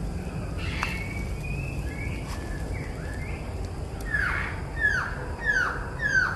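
Birds calling outdoors: scattered short chirps and whistles, then from about four seconds in a loud run of clear downward-slurred notes repeated about every two-thirds of a second. A steady low rumble lies underneath.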